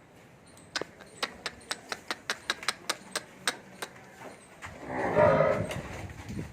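Jafrabadi water buffalo lowing once, a loud call of about a second and a half near the end. Before it comes a quick run of sharp clicks, about four a second.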